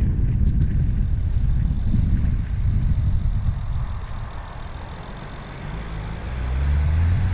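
BMW 335i's N54 twin-turbo inline-six driving with steady low rumble and road noise. The engine is eased off in the middle, then about six seconds in its note climbs as the car accelerates.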